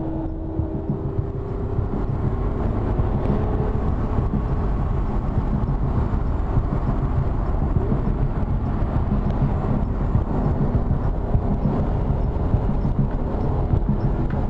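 Car running: a steady, dense low rumble of engine and road noise.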